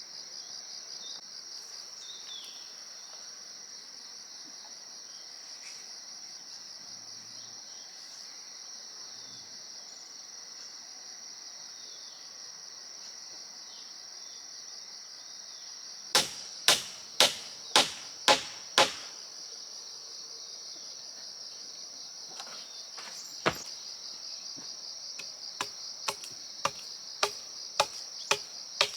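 Steady high-pitched chorus of insects, with hammer strikes on the wooden frame: six hard blows about half a second apart in the middle, a single blow a few seconds later, then a run of lighter taps near the end.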